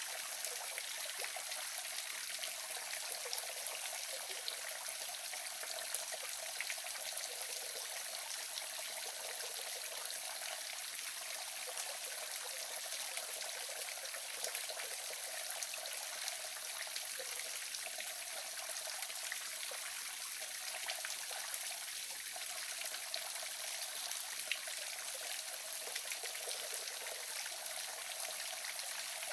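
Waterfall running steadily: an even rush of falling and splashing water with little deep rumble, and small splashes flecked through it.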